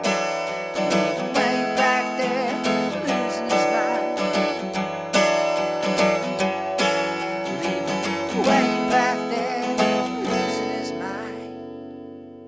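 Instrumental outro of an acoustic folk song: an acoustic guitar strummed in a steady rhythm, ending about ten seconds in on a final chord that rings and fades away.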